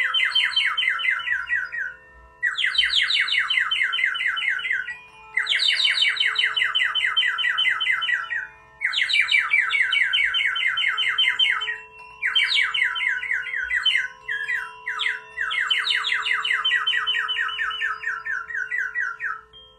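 A songbird singing repeated fast trills, each phrase two to three seconds long with short pauses between, over the steady ringing hum of a singing bowl.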